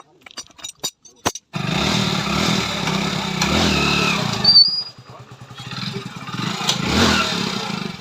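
A few sharp clicks, then a motorcycle engine starts about a second and a half in and runs fast, drops back to a pulsing idle, and is revved once more near the end before settling.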